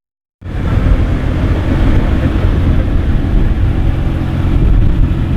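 Nissan GT-R R35's twin-turbo V6 engine and exhaust running loud and steady, cutting in suddenly about half a second in.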